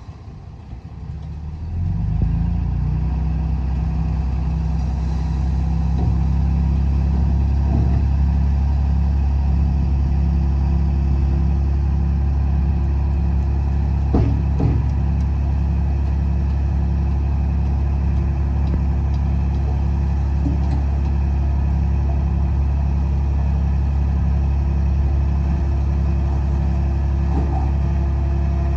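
Heavy-machine diesel engine running, rising sharply to a loud, steady drone about two seconds in and holding there.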